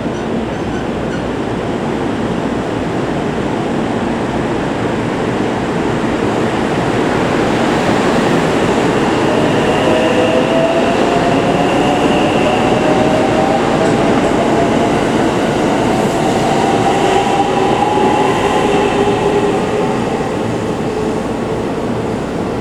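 Electric limited express train running, loud and steady, with a motor whine that rises slowly in pitch from about nine seconds in as the train gathers speed.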